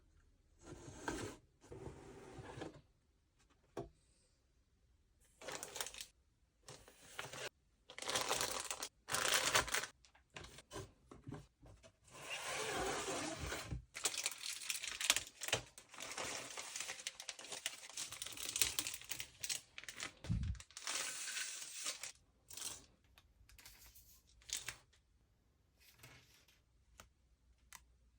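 Packaging crinkling and tearing in irregular bursts with short pauses, the longest stretch running for several seconds in the middle.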